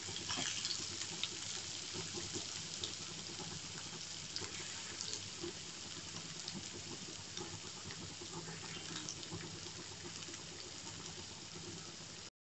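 Shredded cabbage sizzling and crackling in hot oil in a wok as it is poured in, a steady hiss that slowly fades. It cuts off suddenly near the end.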